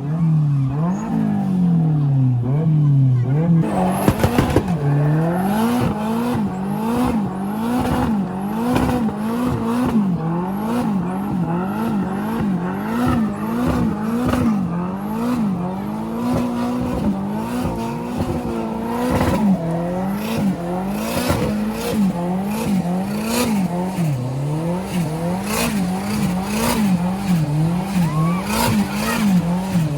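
Car engine revved up and down over and over, about once a second, with tyre squeal, as in a burnout. A harsher burst comes about four seconds in.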